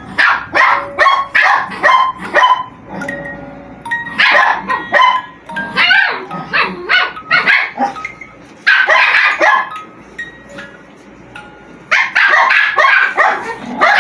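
Several pet dogs barking in repeated bursts, with a gap of a couple of seconds before a last run of barks near the end. A tinkly tune plays underneath.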